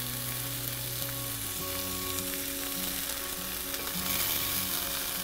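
Kafta patties sizzling in hot oil in a frying pan, a steady hiss, as they are lifted out with tongs. Faint background music runs underneath.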